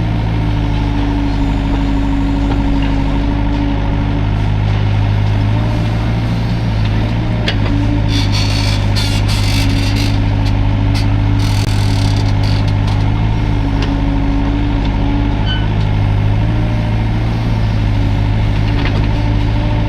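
Hydraulic excavator's diesel engine running steadily under working load, its note swelling and easing as the hydraulics work. A spell of rougher, scraping noise about halfway through.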